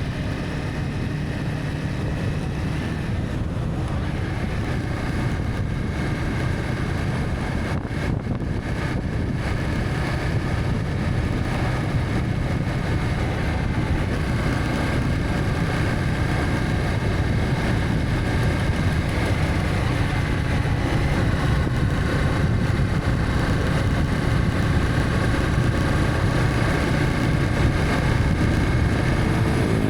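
Honda CB300F single-cylinder motorcycle engine running steadily at cruising speed, mixed with wind and road noise.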